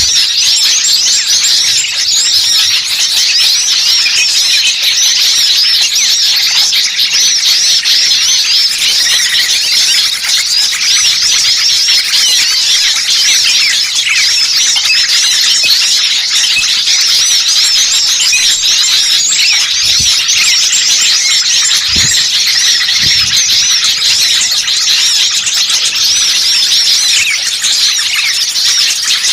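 A dense, unbroken chorus of many small songbirds chirping and twittering rapidly at high pitch. It is the agitated, noisy small-bird chatter used as a bird-lure (pikat) recording.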